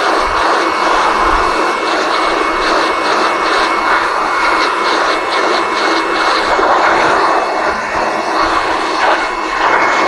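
An electric air blower running steadily: a continuous rush of air with a faint, steady high whine.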